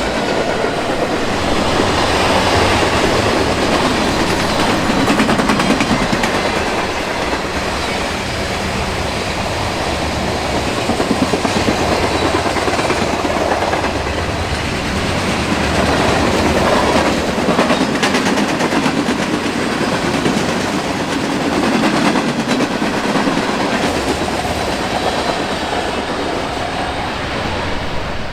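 Eastbound Norfolk Southern mixed freight train rolling past, its freight cars' wheels running over the rails in a loud, steady din.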